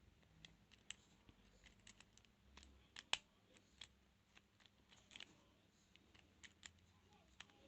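Faint, irregular small metallic clicks and scratches of lock picks working in a transparent practice padlock.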